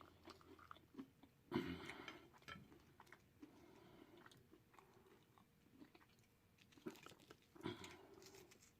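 Faint, close-up chewing and biting of food, with wet mouth clicks. A few louder crunching, smacking bursts come about a second and a half in and again near the end.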